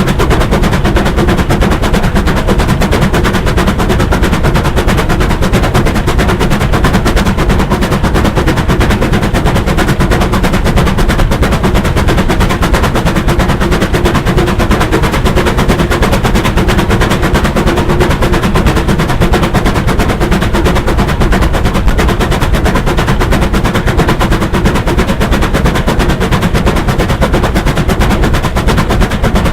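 Bulleid steam locomotive running, its exhaust a rapid, unbroken beat of sharp strokes over a steady hum.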